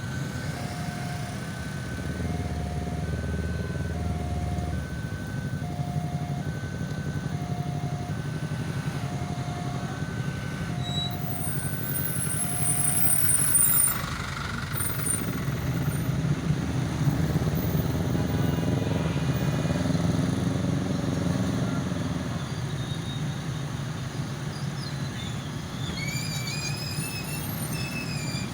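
A train passing, its low rumble swelling and then fading over several seconds. It follows a two-tone electronic alarm that beeps steadily about once a second and stops about halfway through. Near the end comes a run of high chirping sweeps.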